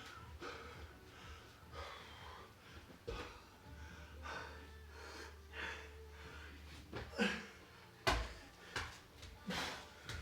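A person breathing hard and fast in short gasping breaths while exerting through a workout, with a thump about eight seconds in.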